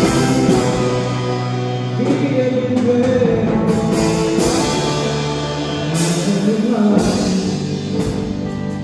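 Live worship band playing a slow song, a drum kit with cymbal crashes about as it starts and again about six seconds in, under held chords and a moving melody line.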